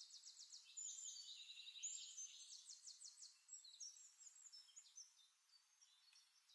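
Faint birdsong: quick high trills and short chirps, dying down over the last second or two.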